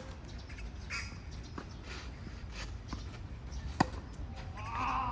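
Tennis racket strings striking the ball: a sharp hit at the start and a louder one nearly four seconds later, with faint ball bounces between. A brief squawk is heard near the end.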